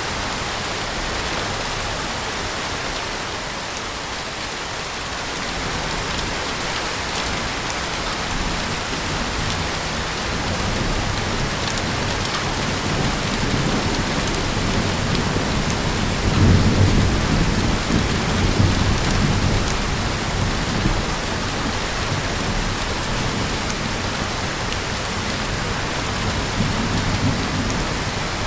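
Heavy rain falling steadily, with a low rumble of thunder swelling up about halfway through and dying away a few seconds later.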